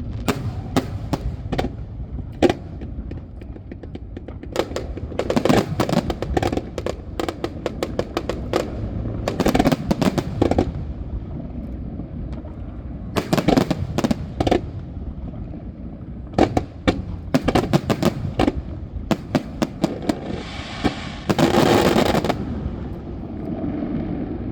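Fireworks going off: sharp bangs of aerial shells, some single and some in quick rapid-fire clusters, over a steady low rumble, with a longer crackling burst a little before the end.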